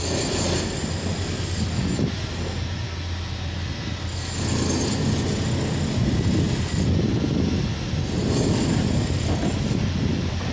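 Electric multiple unit passing on a far station track: a steady rumble of wheels on rail with a thin, high wheel squeal that comes and goes.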